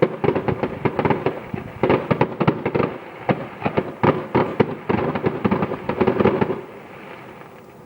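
Fireworks display: rapid crackling and banging bursts, many in quick succession, easing off to a faint rumble with only a few scattered pops about six and a half seconds in.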